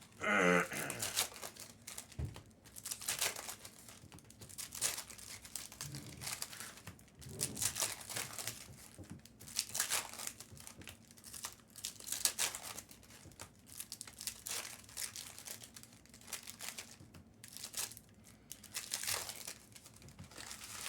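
Foil trading-card pack wrappers crinkling and tearing as packs are ripped open, in repeated bursts of rustling.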